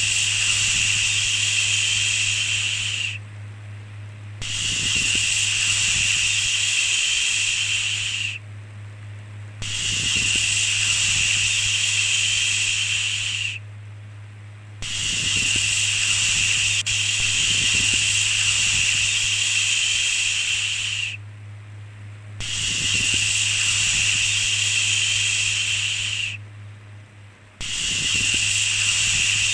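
A repeated 'shhh' shushing hiss, each shush lasting about four seconds (one runs about six) with a pause of about a second between, over a steady low hum.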